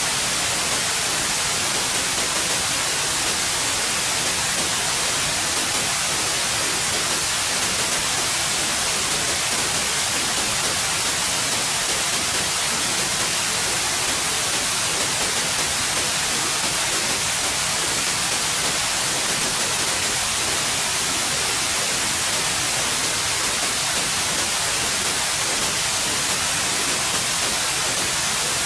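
Steady synthetic white noise: an even, unchanging hiss with the most energy in the highs.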